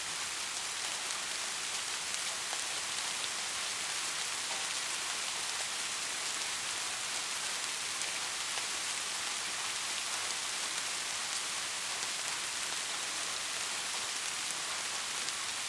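Steady heavy rain, a dense even hiss with faint scattered drop ticks and no thunder.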